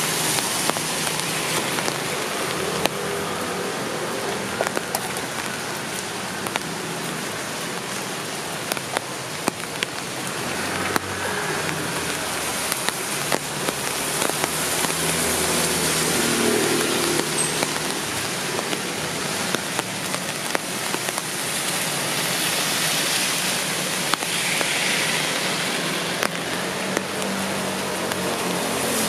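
Steady rain, with frequent sharp ticks of drops hitting close to the microphone and a low hum underneath that is strongest around the middle.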